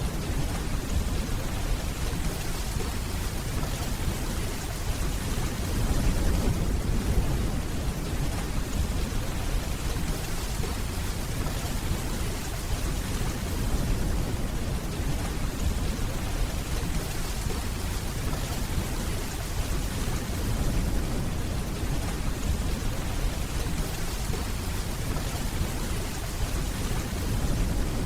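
Steady, even rainfall with a low rumble of distant thunder underneath, swelling slightly about six seconds in.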